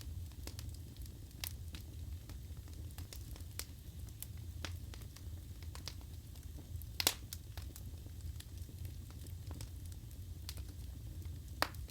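Wood fire burning in a fireplace: a steady low rumble of flames with scattered crackles and pops from the burning logs, one sharp pop about seven seconds in and another near the end.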